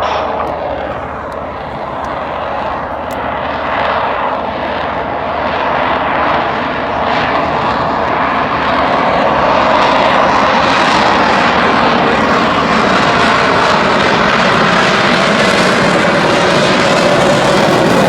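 Jet engines of an F/A-18 Super Hornet flying past at low speed, the noise building over the first several seconds and then staying loud and steady.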